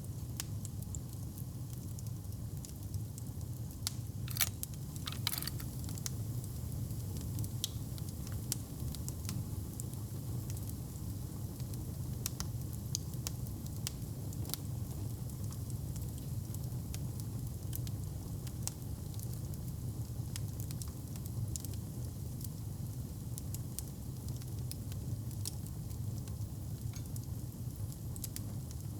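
Wood fire in a fireplace crackling with frequent small pops over a steady low rumble, with a few louder pops about four to five seconds in.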